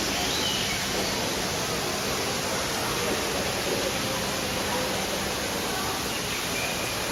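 Steady rushing noise, even and unbroken, with faint voices in the background.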